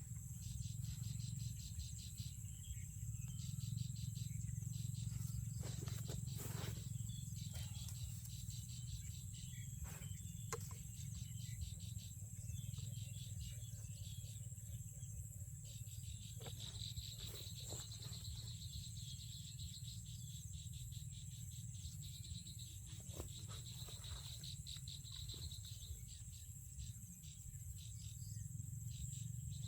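Insects chirring in a rice field, with a steady high drone and a pulsing trill that joins about halfway through, over a steady low rumble and occasional clicks and rustles.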